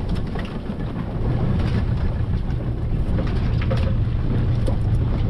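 Boat engine running steadily under way, with a low hum, over wind and water noise.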